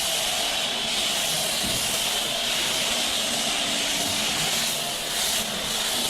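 High-pressure water spray from a pressure washer wand blasting a truck, a steady loud hiss.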